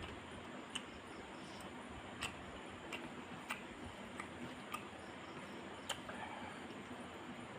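Close-up eating sounds: a person chewing, with about seven sharp, irregular clicks and smacks over a steady background hiss.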